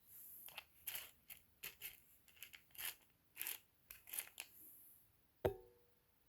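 A run of short rustling scrapes, about a dozen over four seconds, then a single sharp clink with a brief ring about five and a half seconds in: the handling of a parcel of rough opal chips.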